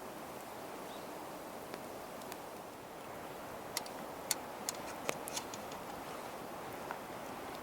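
Wood campfire crackling: a steady hiss with a quick run of sharp pops about halfway through.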